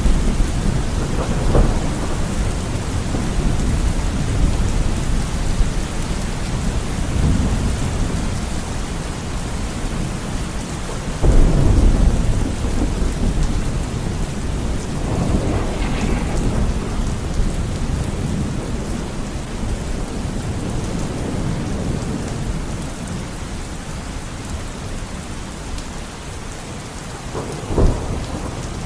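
Steady heavy rain with rolling thunder: a strong rumble about eleven seconds in, softer rolls in between, and a short sharp clap near the end.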